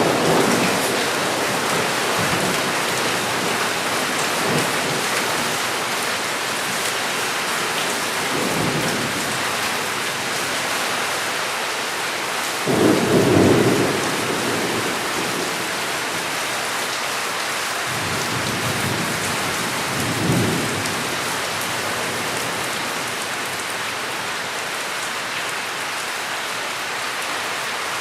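Heavy rain falling steadily, with rumbles of thunder: a faint roll about a third of the way in, the loudest about halfway through, and another about two-thirds in.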